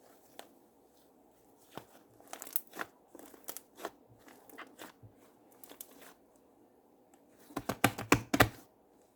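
Slime being squished and worked by hand, giving scattered sticky pops and crackles, then a loud run of rapid popping near the end.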